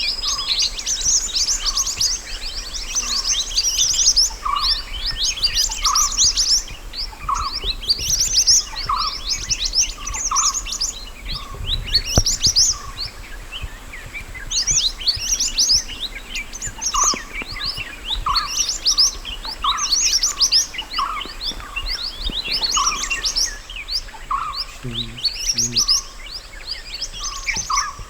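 Mantenan gunung birdsong: clusters of rapid, high chirps and trills repeated every second or so, with a lower short note recurring about once a second beneath them.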